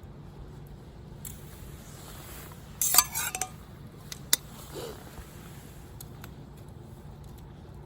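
Camp tableware clinking: a short cluster of clinks about three seconds in, then a single sharp clink a second later.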